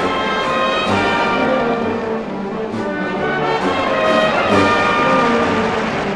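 Brass band playing a pasodoble, trumpets and trombones carrying the tune over regular percussion strokes, from an old vinyl record.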